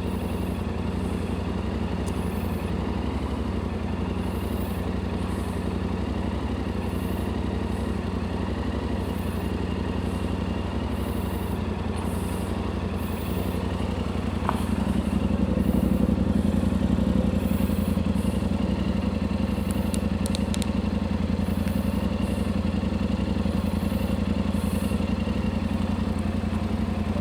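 Motorcycle engine idling steadily, getting a little louder about halfway through.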